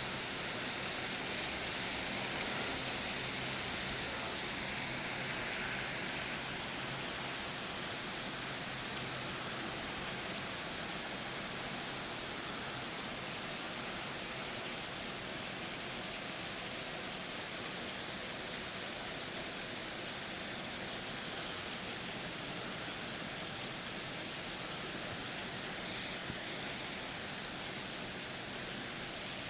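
Steady rushing noise of a storm, with no distinct strikes or changes.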